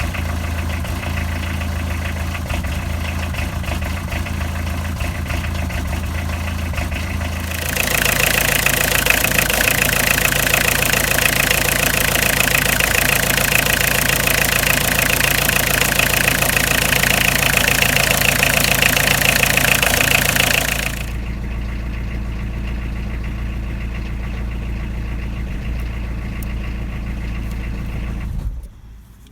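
Citroën ZX TD's 1.9-litre XUD9 turbodiesel running cold at -6°C after a cold start. It idles, is held at a steady higher engine speed for about thirteen seconds, then drops back to idle, and the sound falls away near the end.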